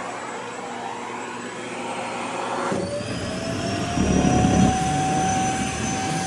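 Vacuum cleaner running with a steady motor whine. About halfway through the whine rises in pitch as the airflow at the nozzle changes, and a rough, fluttering rumble joins in near the end as the dress fabric is drawn into the nozzle.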